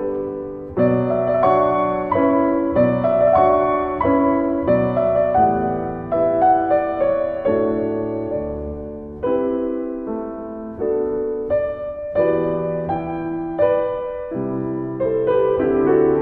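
Calm piano music: chords struck about once a second, each left to ring and fade.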